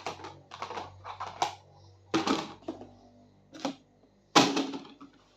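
Irregular series of sharp clicks and knocks, about eight in all, the loudest one a little after four seconds in: objects being handled and set down.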